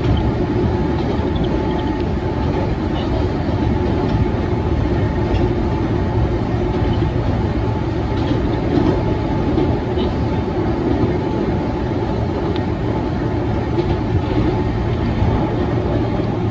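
Keihan 600-series electric train running steadily, heard from inside the car: a continuous rumble of wheels on rail with a faint steady tone and scattered light clicks from the track.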